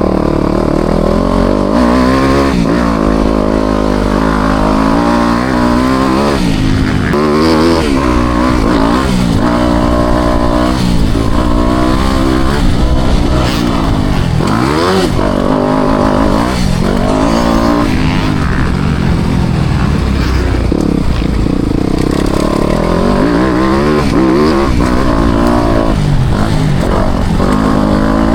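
Four-stroke motocross bike engine ridden hard around a dirt track, revving up and dropping back again and again as the throttle is opened and shut through the jumps and corners.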